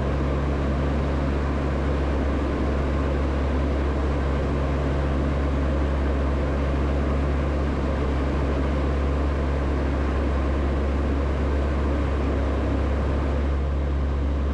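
Steady cockpit drone of an ATR turboprop airliner's engines and propellers in flight on approach, a constant low hum with even airflow noise over it.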